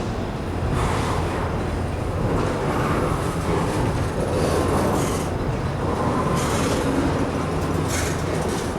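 Norfolk Southern freight train rolling past, a steady low rumble of wheels on rail with a few sharp clicks from the wheels and rail joints.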